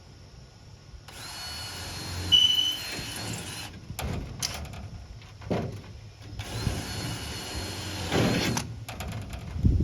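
Power drill running in two bursts of two to three seconds each, with clicks and knocks in between, while the body clips are fitted along the race car's deck.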